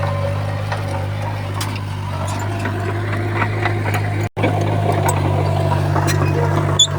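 Diesel engine of a Komatsu bulldozer running steadily under load, a low drone with scattered clicks and clanks over it. The sound drops out for a split second about four seconds in, then the engine carries on.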